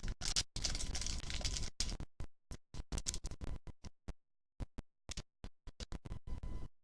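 Broken-up, glitching audio. A dense burst of noise runs through the first two seconds, then the sound keeps cutting out, leaving only short fragments separated by dead silence. This is a recording with a bad audio feed dropping in and out.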